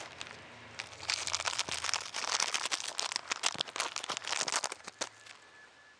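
Thin plastic bag or packaging crinkling and rustling as it is handled, dense from about a second in and stopping about five seconds in.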